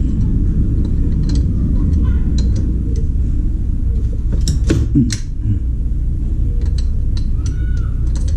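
Scattered metallic clicks and taps of an 8 mm wrench working the bolts of the camshaft retainer plate on a motorcycle cylinder head, with a short squeak near the end. A steady low rumble runs underneath and is the loudest sound.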